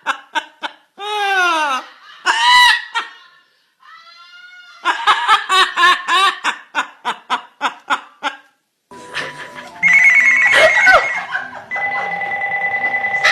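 A string of short sound clips: rapid trains of chirping pulses and swooping falling cries, then, from about ten seconds in, a steady electronic tone like a phone ringtone.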